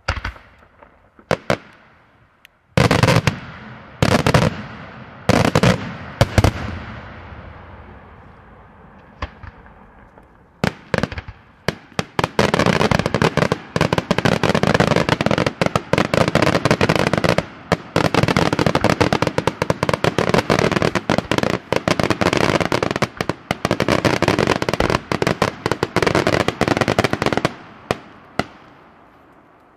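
Daytime fireworks display: about six sharp aerial shell bangs roughly a second apart in the first seven seconds. After a few scattered cracks comes a dense, continuous run of rapid crackling reports from about twelve seconds in until near the end.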